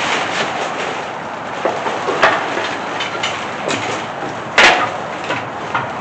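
A few sharp metallic knocks and clunks over a steady background hiss, the loudest a heavy clank near the end. These are the sounds of handling the metal parts of an engine hoist and engine stand while a small-block Chevy V8 block is mounted.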